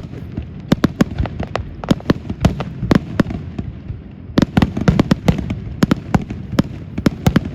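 Fireworks show: a rapid barrage of aerial shell bangs, several a second, over a steady low rumble.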